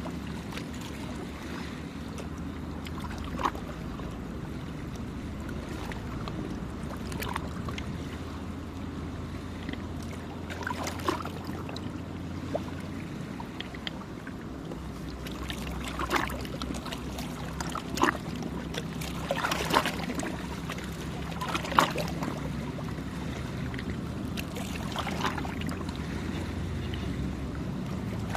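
A boat's engine running steadily as a low drone, its pitch shifting slightly about halfway through, with small waves splashing against the shore now and then.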